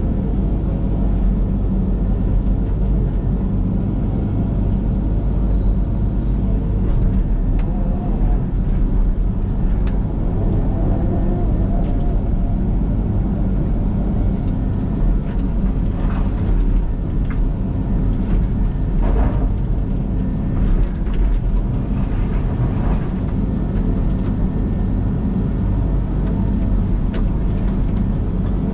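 Link-Belt hydraulic excavator's diesel engine running at a steady speed, with some scraping and knocks about halfway through.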